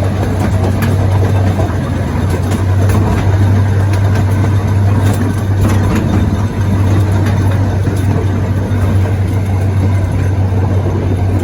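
Miniature zoo train running steadily with a strong, constant low engine hum, with a few light clicks scattered through.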